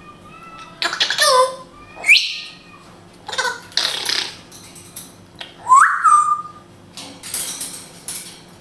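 African grey parrot calling in a series of separate sounds: raspy, hissy squawks alternating with short whistles that rise sharply and then hold a steady note.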